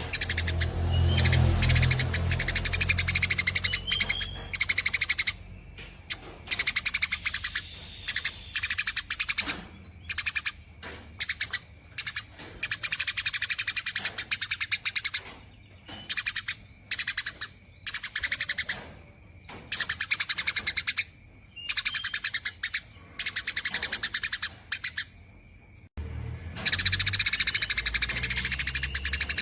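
Eurasian tree sparrow chattering in long, rapid, buzzy trills ('nyerecet'), in repeated bursts of one to two seconds separated by short pauses. A low hum sits underneath at the start and again near the end.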